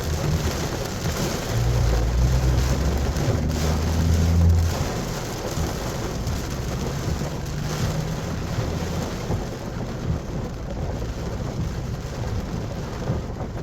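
Heavy rain pouring down steadily during a flash-flood rainstorm. A low rumble swells about two seconds in, is loudest around four seconds in, then fades.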